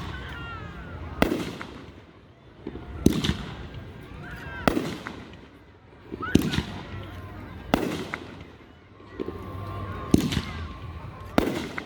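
Aerial fireworks shells bursting, seven sharp booms about every one and a half to two seconds, each trailing off in a short rumble.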